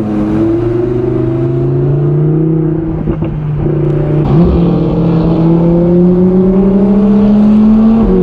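A loud car engine and exhaust pulling steadily, its pitch climbing slowly, with a sudden step up in pitch about four seconds in before it climbs again.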